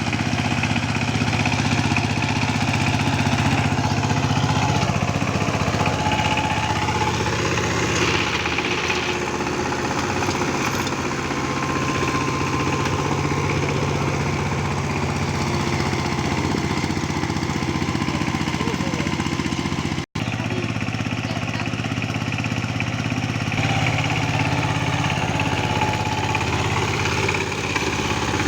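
Saifeng 12-horsepower power tiller's diesel engine running steadily under load while tilling wet, low-lying land.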